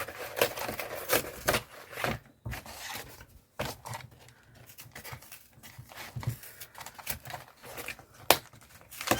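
Large paper packaging being pulled and torn open by hand: irregular tearing and rustling with sharp snaps, the loudest one near the end.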